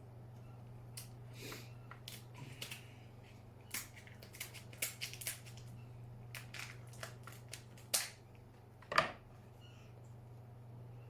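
Lobster tail shell being cracked and broken open: a string of sharp cracks and crunches, the two loudest about eight and nine seconds in.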